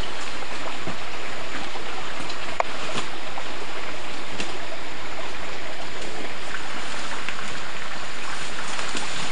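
A steady rushing noise, like running water, with a couple of faint clicks about three seconds in.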